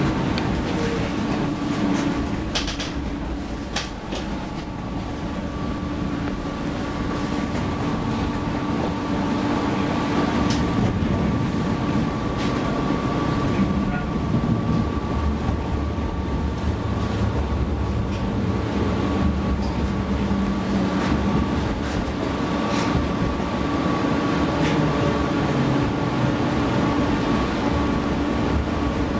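Cabin sound of a PESA Fokstrot tram running between stops. Wheels rumble steadily on the rails under a constant hum, with a few sharp clicks here and there.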